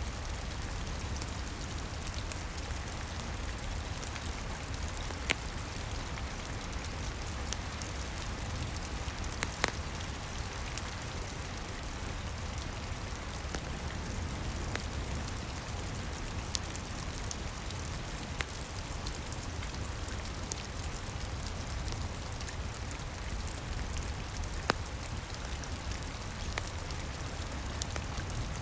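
Steady rain over a low rumble, with a wood fire crackling: scattered sharp pops, the loudest about five, ten and twenty-five seconds in.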